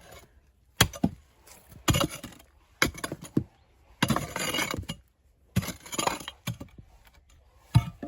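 Heavy metal tool striking rock, roughly one hit a second with a pause midway, chipping the stone out. There is a longer scraping, crumbling spell between some of the blows.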